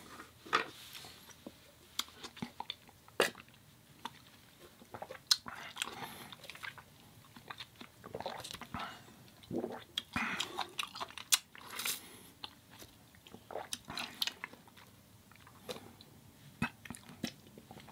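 Close-miked chewing and biting of food: irregular wet mouth clicks and short crunches, spread unevenly with the loudest ones in the middle.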